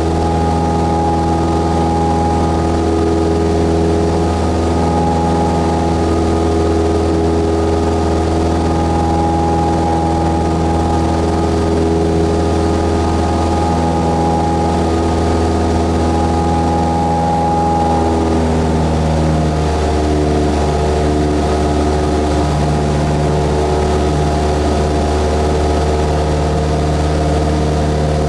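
Cessna 172S's four-cylinder Lycoming piston engine and propeller running steadily, heard from inside the cockpit. Its note shifts slightly about two-thirds of the way through.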